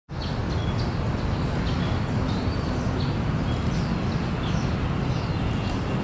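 Steady low rumble of background noise, with small birds chirping throughout in short high notes, some falling in pitch.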